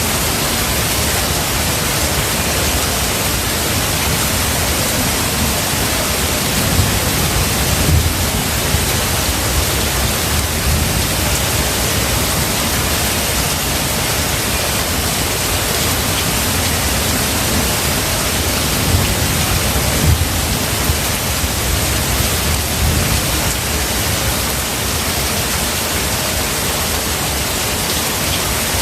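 Steady rain, an even hiss, with low rumbles of thunder swelling twice, about a quarter of the way in and again past the middle.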